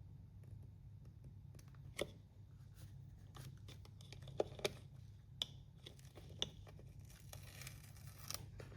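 Faint hand work on small parts: a few sharp clicks and taps, then about a second of rasping, tearing noise near the end, over a low steady hum.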